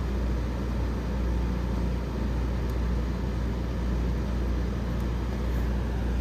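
Window air conditioner running just after being switched on: a steady fan rush over a constant low electrical hum.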